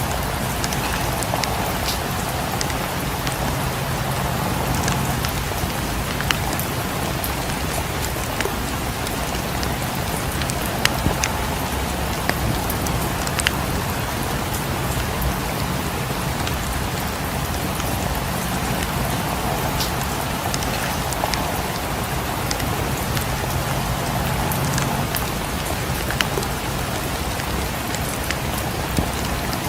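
Steady rain falling with an even hiss, and scattered sharp pops and clicks from a crackling fireplace mixed in.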